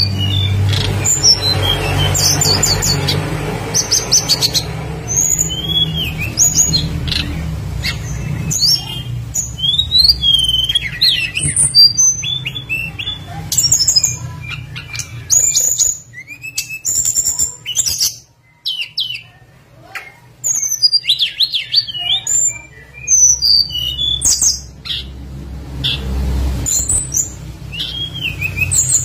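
Tledekan gunung songbird calling: a rapid string of short, high chirps and quick sweeping whistles, with brief pauses, over a low background hum.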